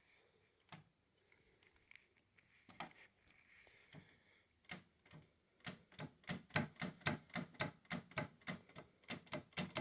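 Quiet, sharp metallic clicks from work on a Clausing 4800 lathe's leadscrew lock nuts as they are tightened, scattered at first, then a steady run of about two or three a second from about halfway through.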